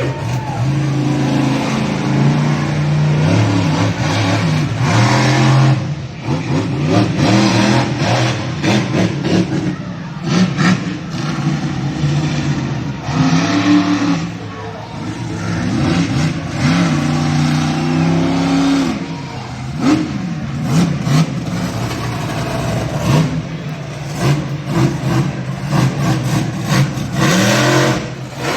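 Monster truck engine revving hard again and again, its pitch climbing and dropping with each throttle blip.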